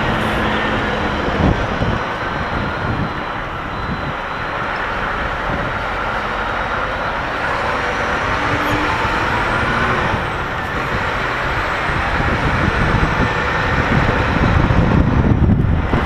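An HGV lorry's diesel engine running as the truck manoeuvres slowly through a tight turn, getting louder near the end.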